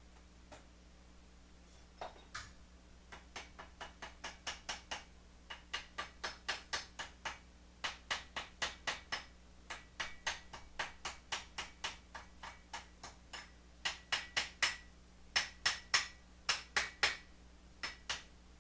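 Hammer striking metal in quick runs of taps, about three blows a second with short pauses between runs, each blow with a short metallic ring.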